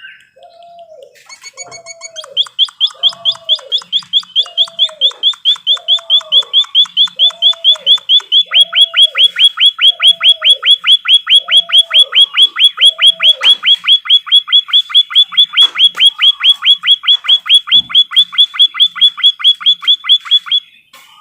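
Songbird trill from an emprit kaji training recording: a long, fast run of sharp repeated notes, about seven a second, that starts about two seconds in and cuts off suddenly near the end. Under it, a lower call repeats about twice a second and stops about two-thirds of the way through.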